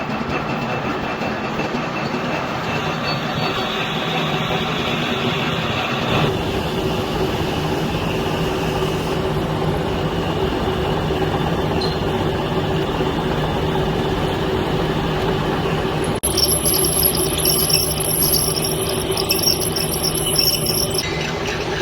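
Metal lathe running while turning a steel piston: a steady mechanical hum and grind. About sixteen seconds in, a high-pitched ringing joins it for about five seconds.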